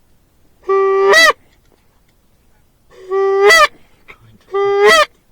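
Goose call blown by a hunter, three loud honks each held on a low note and then breaking sharply upward, calling to geese that are working toward the decoys.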